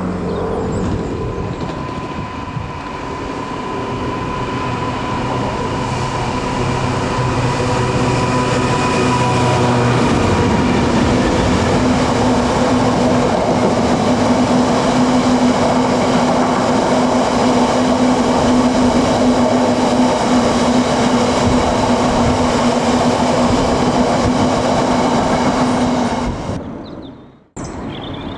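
A train running past on the line: a steady drive hum and rolling noise that grows louder over the first ten seconds. The hum's low note steps up in pitch about ten seconds in. The sound cuts off abruptly near the end.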